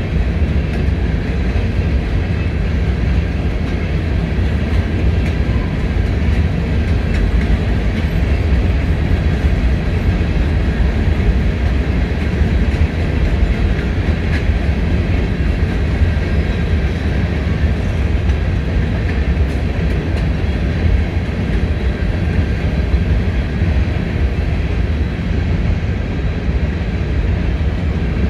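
CSX freight train's loaded covered hopper grain cars rolling past, a steady rumble of steel wheels on rail.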